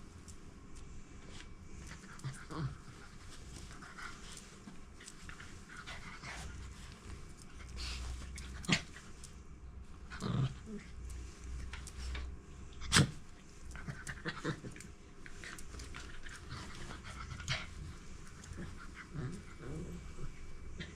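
A dog panting, with scattered short rustling noises and a few sharp knocks, the loudest a little past halfway.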